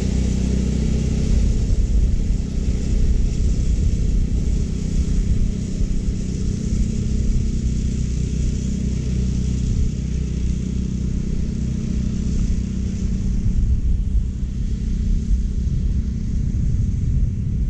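California Trimmer powered reel mower running steadily while mowing short Bermuda grass: a steady engine hum with a hiss of the spinning reel above it.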